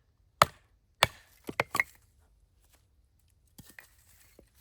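Batoning firewood: a baton hammers the back of a knife blade driven down into a log, with two hard strikes followed by a quick run of three lighter knocks. A few faint knocks come near the end.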